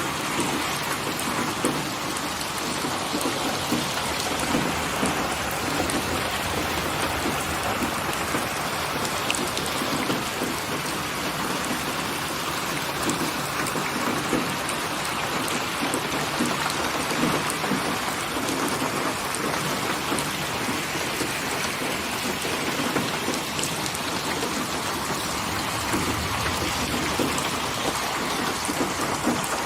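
Steady rain falling, with a constant hiss and many individual drops ticking against a surface.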